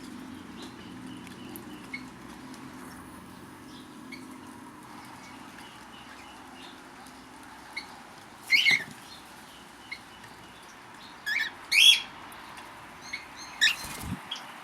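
Aviary birds: soft wing flutters and small ticks, then four short, loud, high chirps spread over the second half.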